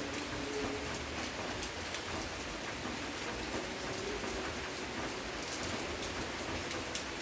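Steady rain falling and pattering on surfaces, with scattered individual drips.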